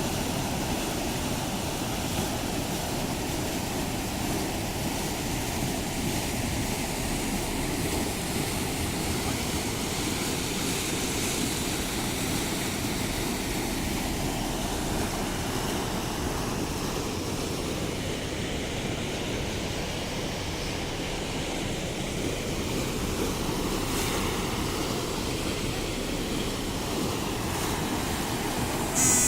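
Steady low rushing noise with no change throughout, and a short sharp high-pitched sound just before the end.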